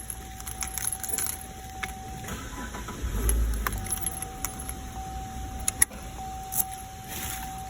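Car key clicking and jingling in the ignition lock cylinder, over a steady high tone that breaks off for about a second and a half after two seconds in, with a short low rumble about three seconds in.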